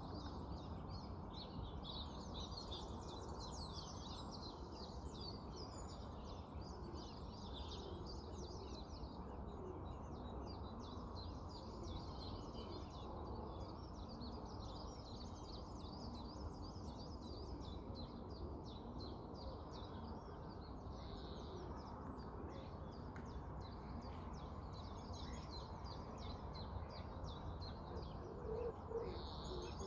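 Small birds singing, a constant mix of high chirps and twitters, over a steady low background hum. A low, repeated cooing call begins near the end.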